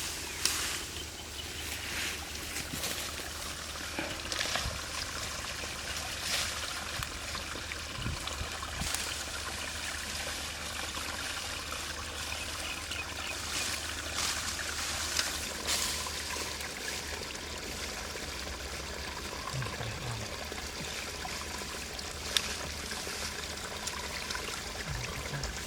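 Steady trickling water with a few short, sharp splashes.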